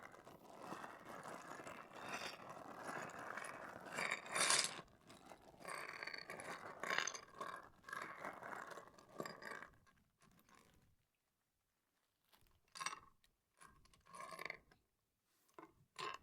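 Handling noise from a Lego set's box and packaging: steady rustling and scraping with small clicks for about ten seconds, then a few short rustles.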